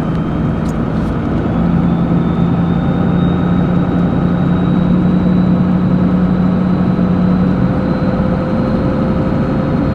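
Engine running steadily at a constant speed, a held hum over a rough noisy bed, with a faint high whine slowly rising in pitch.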